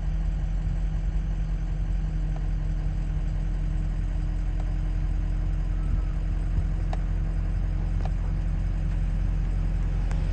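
Steady car engine and road hum from inside a moving car's cabin, with a couple of faint ticks late on.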